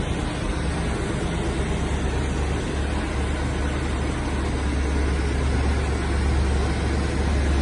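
1978 Pontiac Firebird engine idling steadily, a deep low hum under a hiss, getting a little louder near the end.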